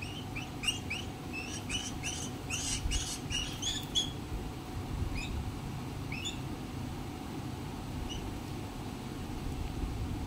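Bird chirping: a quick run of short, high chirps through the first four seconds, then a few scattered single chirps, over a steady low background rumble.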